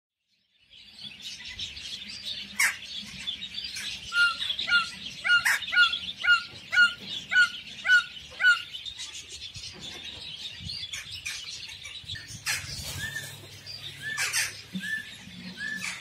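Many birds chirping and calling together, with one bird repeating a short call about twice a second for several seconds, and a few sharp, louder calls standing out; a similar series of repeated calls returns near the end.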